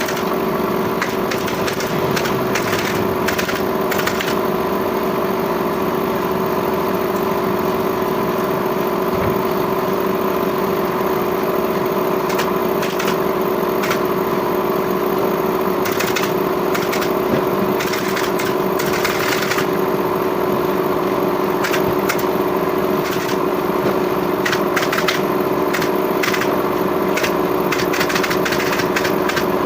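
Steady machine hum with irregular sharp clicks and snaps over it, some coming in quick clusters.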